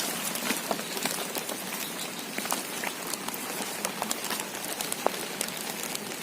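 Heavy rain falling steadily: an even hiss dotted with many scattered drop ticks.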